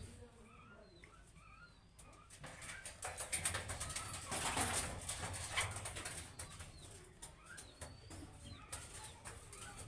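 Budgerigars chirping softly in short rising calls, with a louder burst of rustling, clicking noise from about two and a half to six seconds in.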